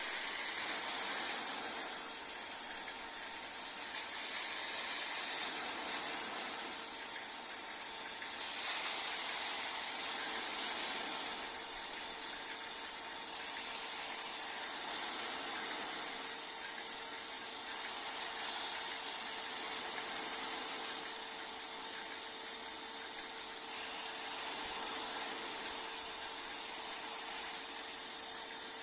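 Rain gun sprinkler throwing a high-pressure water jet: a steady hiss of spray that swells and eases every few seconds, over a faint steady hum.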